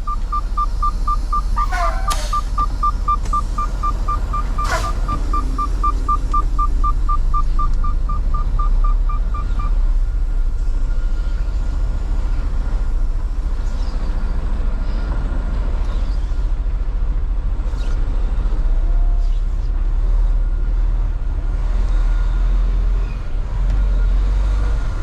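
Semi-truck's diesel engine running low and steady inside the cab, with a rapid electronic warning beep, about five beeps a second, that stops about ten seconds in. A couple of sharp knocks come early on.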